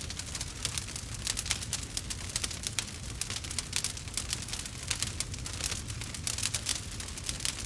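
Wood fire crackling in a fireplace: a dense, irregular run of small sharp pops and snaps over a steady low rumble of the burning logs.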